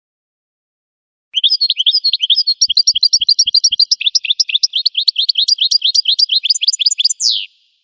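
Goldfinch song: a fast, continuous run of high twittering notes starting about a second and a half in and lasting about six seconds, ending in one drawn-out falling note.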